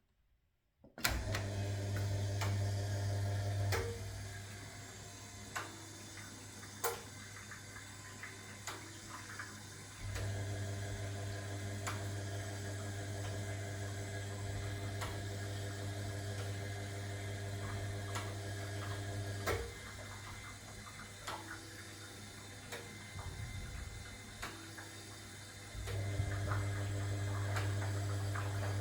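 1961 AEG Lavamat Noris washing machine running, water flowing in, starting about a second in. A low hum comes and goes in stretches of several seconds, with occasional clicks over the running water.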